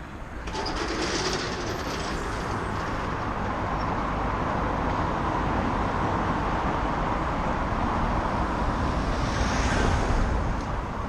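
Steady rushing noise of wind and tyres on the road while a bicycle is ridden along, coming up about half a second in and then holding level.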